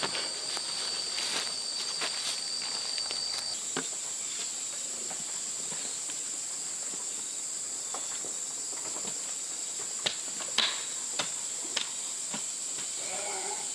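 Insects keep up a steady, high-pitched drone; one of two pitches drops out a few seconds in. A few sharp clicks or taps, likely footsteps or handling, come near the end.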